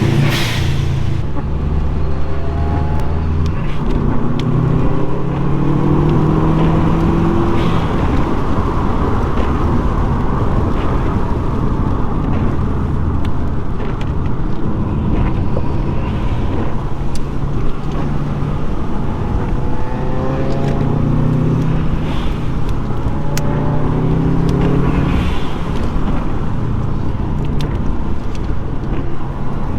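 Subaru Impreza WRX's turbocharged flat-four boxer engine under hard acceleration on a twisty road, its pitch climbing through the revs several times with drops between gear changes, over steady tyre and road noise.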